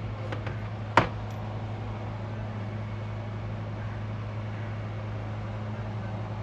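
Steady low machine hum with one sharp metallic clink about a second in, like a tool knocked or set down on metal, after a few faint clicks.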